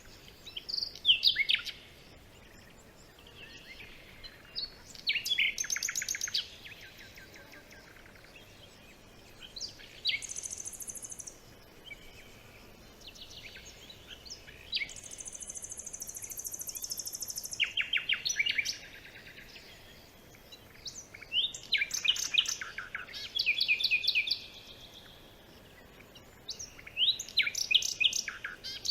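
Forest songbirds singing in short phrases of rapid, trilled notes every few seconds. A high, thin, steady buzz comes in twice, once briefly and once for about two seconds.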